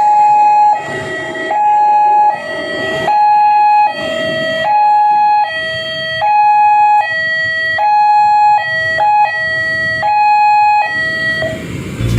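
Railway level-crossing warning alarm sounding: an electronic two-tone signal that switches between a high and a low note about every three quarters of a second, warning of an approaching train. It stops shortly before the end.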